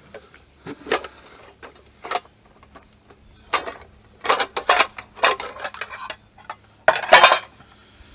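Metal cookware and utensils clattering and clinking as someone handles pots and pans: a series of irregular knocks, with the loudest clatter about seven seconds in.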